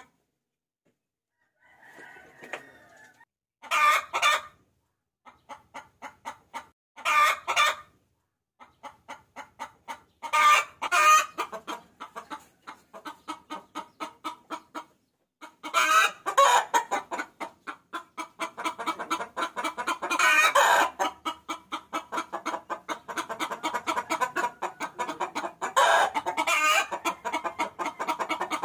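A hen cackling: a run of quick clucks, several a second, broken by louder drawn-out calls every few seconds, growing denser and louder after the first few seconds. It is a hen's call to draw in a cock.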